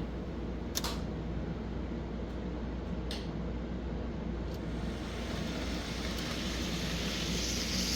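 N scale model train running along the track as it backs up: a steady low whir from the small locomotive, with a couple of faint clicks.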